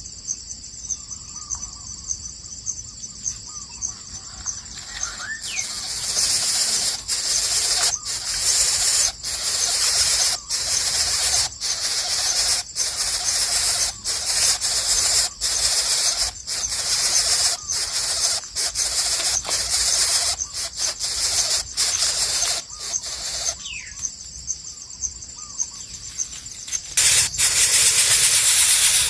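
Insects, crickets or cicadas, trilling in a steady high-pitched chorus with a few faint bird calls. From about six seconds a louder high hissing takes over, cut by many brief gaps, then eases for a few seconds before a loud hiss comes in near the end.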